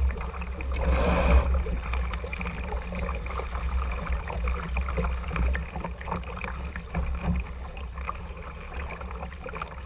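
Water slapping and splashing against a small sailing dinghy's hull, under a steady low wind rumble on the microphone, with a louder splash about a second in.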